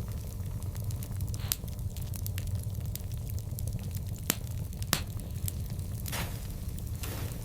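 Wood fire crackling: scattered sharp pops, the loudest about five seconds in, over a steady low rumble of the burning, with a couple of soft hissing swells near the end.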